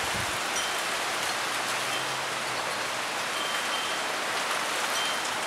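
Wind-driven rain from a severe thunderstorm falling steadily: an even, unbroken hiss.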